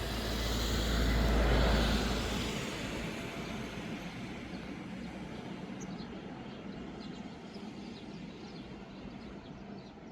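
A vehicle passing by, loudest about a second and a half in, then fading away slowly with a deep rumble underneath.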